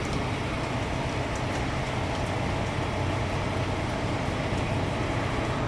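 Steady low engine hum with an even hiss over it, unchanging throughout.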